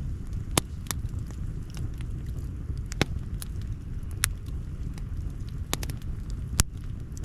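Wood campfire crackling: scattered sharp pops, about half a dozen, the loudest one near the end, over a steady low rumble.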